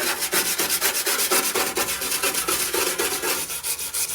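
Vigorous hand scrubbing of the degreaser-soaked steel cab floor of a Ford F100 pickup, rapid back-and-forth scratchy strokes at several per second.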